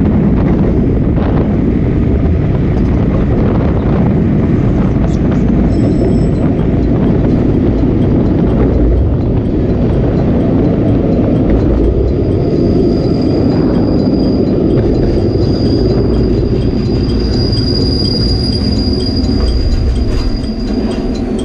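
Sagano Romantic Train running along the track, a steady loud rumble of its wheels and running gear. About halfway through, a thin high squeal of steel wheels comes in and holds until near the end.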